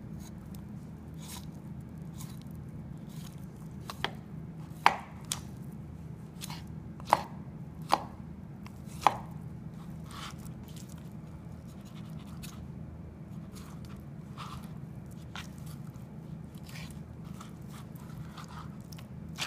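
Knife scraping and cutting breast meat off a raw chicken's breastbone, with scattered sharp clicks as the blade knocks against the bone, over a steady low hum.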